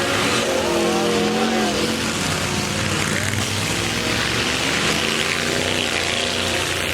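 Several demolition derby trucks' engines running and revving at once, their pitch rising and falling over a steady wash of noise.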